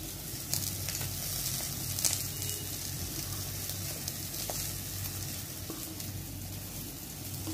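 Onion, tomato and egg masala sizzling in hot oil in a kadai as a spatula stirs it, with a few light knocks. A steady low hum runs underneath.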